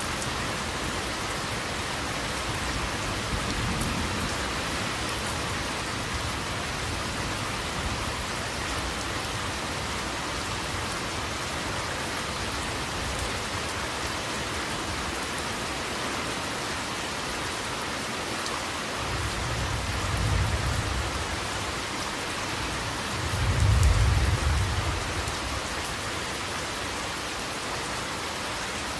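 Steady rain falling, with thunder rumbling low in the background: a faint rumble about four seconds in, then two deeper rumbles about two-thirds of the way through, the second the loudest.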